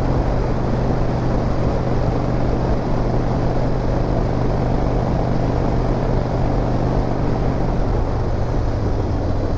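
Harley-Davidson V-twin motorcycle engine running steadily at cruising speed, with wind and road noise over it. The engine note dips slightly about eight seconds in.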